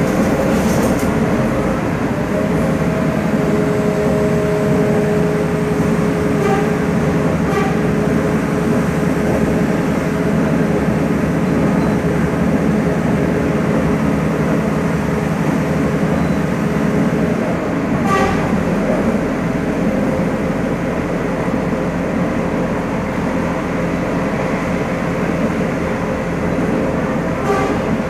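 Passenger train running along the track: a steady rumble with a faint held whine early on. Single sharp knocks come about 8 s in, about 18 s in and near the end.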